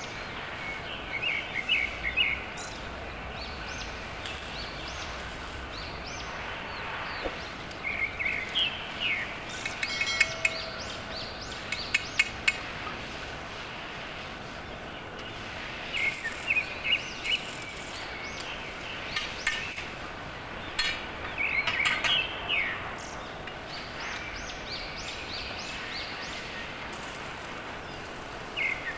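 Small birds chirping in repeated short bursts over a steady background of workshop noise. A few sharp clicks come about ten seconds in. A stick-welding arc starts near the end with a crackling hiss.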